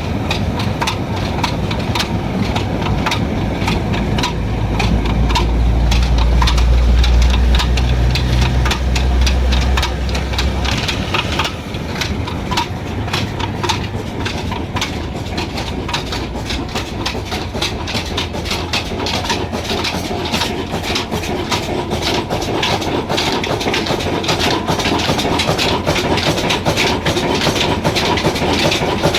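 Old Ruston diesel engine running, with a steady, rhythmic knocking beat. A deep low hum underneath stops about a third of the way through, leaving the knocking beat.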